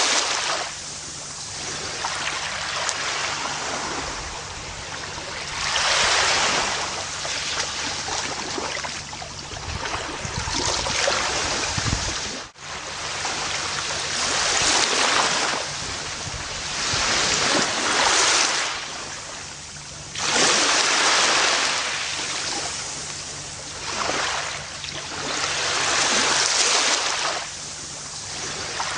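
Ocean waves washing onto a beach, the surf swelling and ebbing every few seconds, about seven surges in all. The sound cuts out very briefly a little before halfway.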